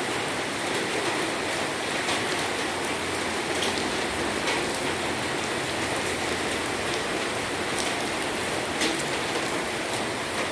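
Steady rain pattering on surfaces, a dense even hiss with scattered louder drop ticks.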